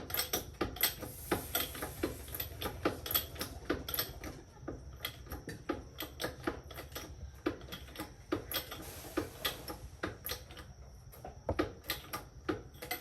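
Irregular sharp clicks and taps, a few a second, of hand tools working on metal parts, over a low steady hum.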